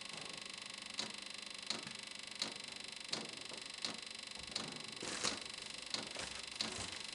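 Chinese diesel heater's fuel pump ticking evenly, about one and a half pulses a second, during the heater's start-up, over a steady high whir.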